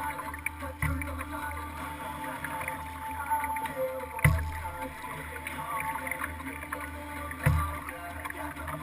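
Kayak moving on the water, picked up by a camera mounted on the boat: water lapping and sloshing against the hull over a steady low rumble, with three dull thumps about three seconds apart.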